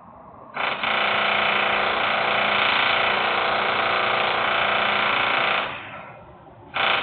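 Loud industrial machine noise: a steady buzzing tone that starts suddenly, holds for about five seconds and cuts off, then starts again briefly near the end.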